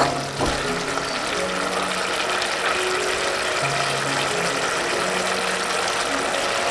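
Green beans and carrots sizzling in a wok, with a wooden spatula scraping the pan a couple of times near the start. Soft background music with held notes plays along.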